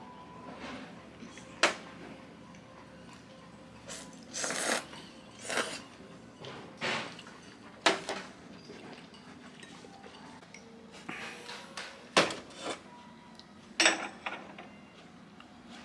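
Dishes and utensils being handled: scattered light clinks and knocks, with a few sharper clicks and short rustling scrapes between them.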